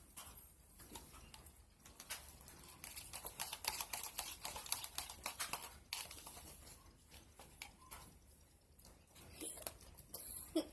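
Lotion-softened Flarp slime being squished and kneaded by hand: a rapid run of small clicks, thickest for a few seconds after the start and again near the end.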